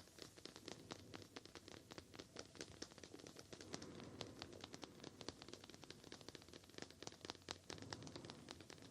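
Quick, irregular light tapping with some scratching on an object, several taps a second, quiet and close.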